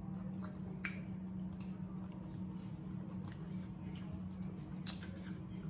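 Close-up mouth sounds of eating: wet chewing and small lip and tongue clicks scattered through, over a steady low hum.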